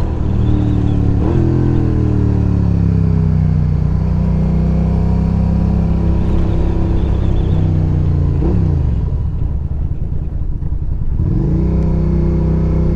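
Suzuki SV motorcycle's V-twin engine under way: revs rise briefly, then fall away as the bike slows, drop low about eight and a half seconds in, and climb again as it accelerates about eleven and a half seconds in.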